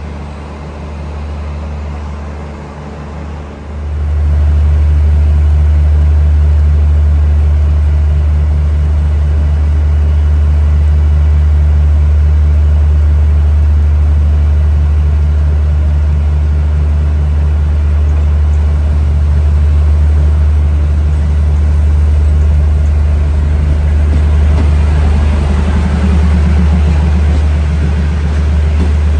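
Moving passenger train: a steady low rumble and drone that jumps much louder about four seconds in and then holds level.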